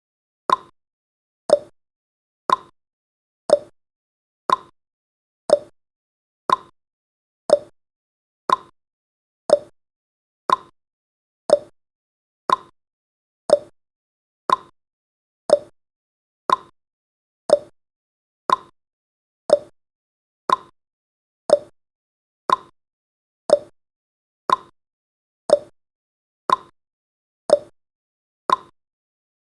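Clock-ticking sound effect of a countdown timer: one short, sharp tick every second, keeping a steady beat with a slightly higher and a slightly lower tick in turn.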